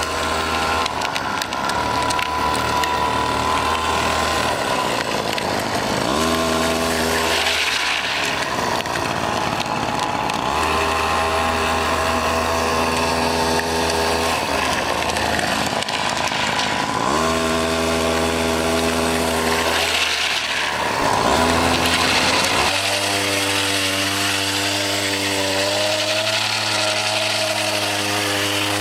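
52cc two-stroke grass-trimmer engine on a homemade drift trike running hard, with several dips and rises in revs: the pitch drops and climbs back a few times and settles higher about three quarters of the way through.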